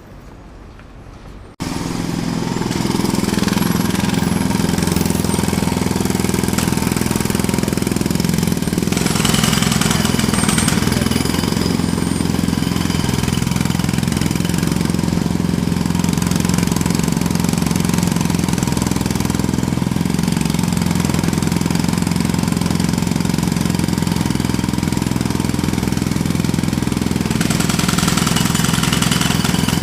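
Jackhammer starting abruptly about a second and a half in, then hammering continuously and loudly without a break.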